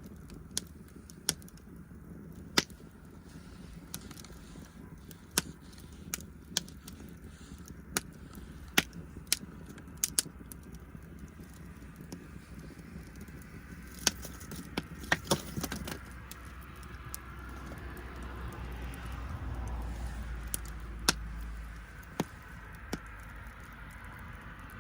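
Wood fire crackling, with sharp irregular pops every second or so and a few in quick succession. A low rumble swells about three-quarters of the way through.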